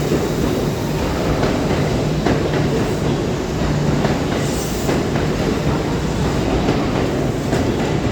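Kintetsu 2800 series electric train pulling out of the station. The wheels clack over rail joints and points under a steady low rumble and hum.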